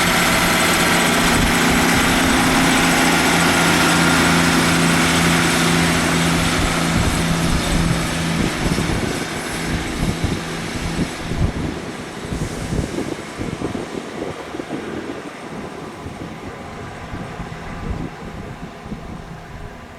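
Diesel train passing: the engine hum and running noise are loud and steady for about the first eight seconds, then fade gradually as the train draws away.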